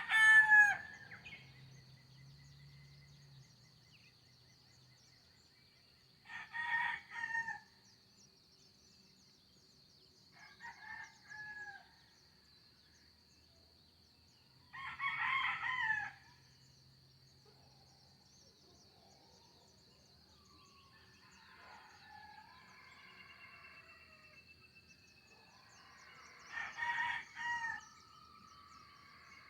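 Roosters crowing again and again, about five crows spaced several seconds apart, one of them fainter. Smaller birds chirp and warble between the crows in the second half.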